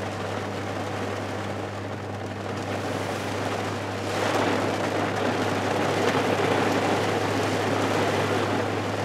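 Hard rain falling on a parked car, heard from inside with a steady low hum under it. The rain grows louder about four seconds in.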